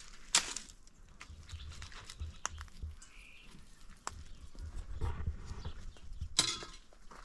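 Dry wheat stalks crackling and rustling as they are cut with a sickle and gathered by hand: a string of sharp crackles, with a louder rustle near the end.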